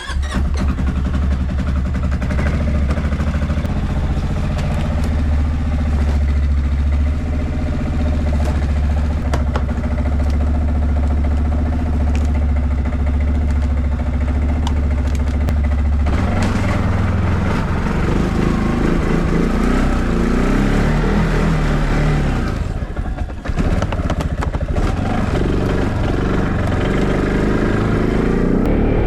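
Tractor engine running at a steady speed, then from about 16 seconds in its note rises and falls as it works, dipping briefly once.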